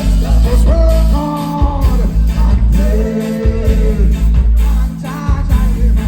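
Live reggae band playing, with heavy bass and a steady drum beat under a lead voice singing.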